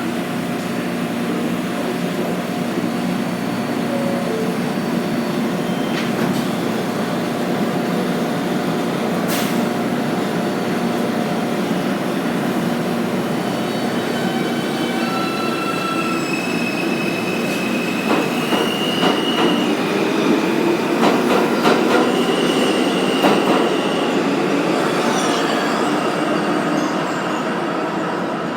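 New York City Subway R160A-2 train pulling out of the station and running past, with the steady rumble of its wheels on the rails and high-pitched wheel squeal coming in partway through, along with a few sharp clicks.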